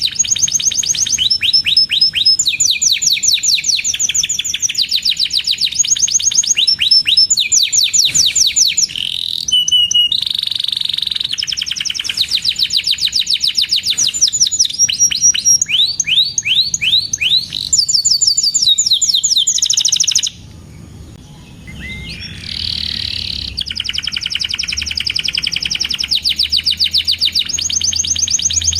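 Domestic canary singing a long, varied song of fast trills: rapid runs of repeated chirping notes that switch pattern every second or two, with a brief break about twenty seconds in.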